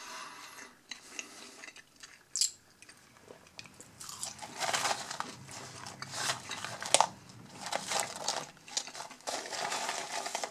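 Close-up chewing of crisp McDonald's curly fries: crunchy bites and chewing, sparse at first and busier from about four seconds in.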